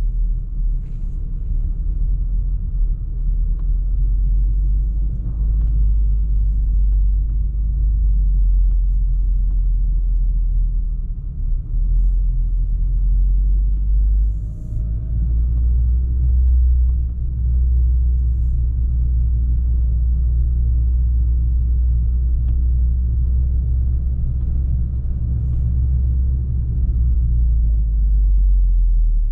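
VW Golf R 7.5's turbocharged four-cylinder engine and exhaust pulling the car at low speed, a steady low rumble that grows a little heavier about halfway through.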